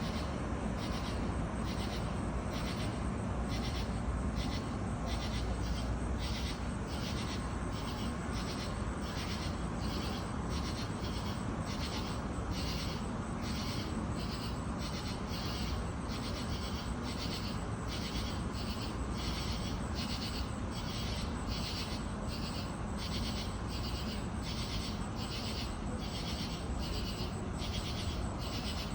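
Night insect calling in a steady rhythm of short, buzzy, high-pitched pulses, about one and a half a second, over a constant low background rumble.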